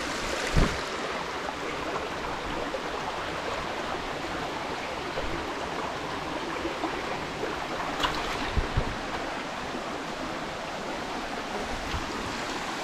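Waterfall water rushing steadily, with a few brief thumps about half a second in and again around eight seconds in.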